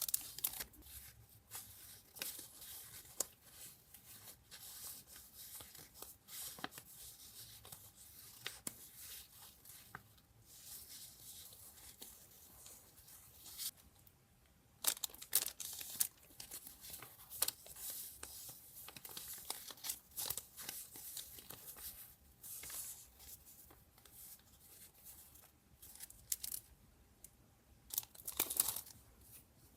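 Paper being torn and crinkled by hand: a run of irregular rips and rustles, with a brief pause about halfway through.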